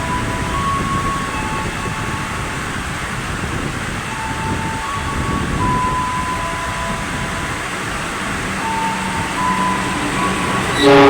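A train running through the station in heavy rain, heard as a steady rushing noise. Near the end a loud train horn starts.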